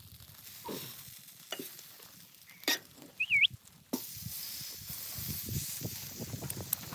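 Sizzling that starts abruptly about four seconds in and runs on as a steady hiss, after a few light clicks and one short wavering chirp.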